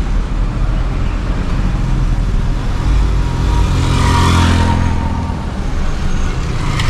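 A moving car's engine and road noise, a steady low rumble that swells louder and brighter for a couple of seconds around the middle, then eases back.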